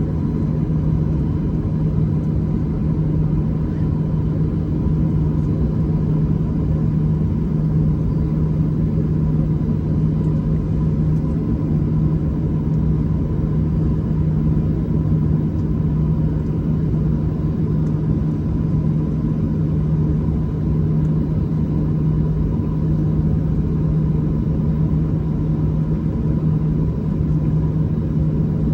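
A steady, loud mechanical drone with a strong low hum: a motor or engine running at constant speed, unchanging throughout.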